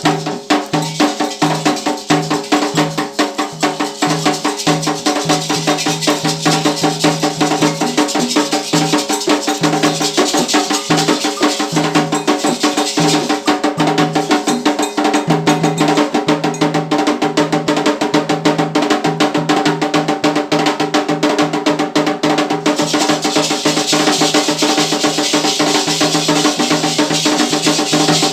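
Candomblé ritual music: hand drums and a struck percussion pattern playing a fast, continuous rhythm over sustained pitched tones.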